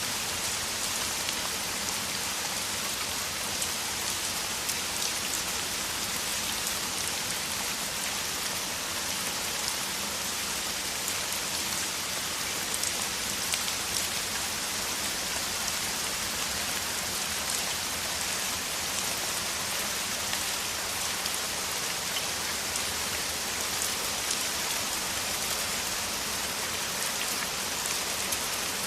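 Heavy rain falling steadily: a dense, even hiss of rainfall with countless small drop ticks, unchanging throughout.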